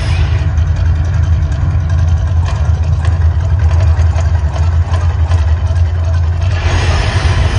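Deep, steady rumble of the Las Vegas volcano show's sound effects, with a loud hissing rush swelling back in about seven seconds in.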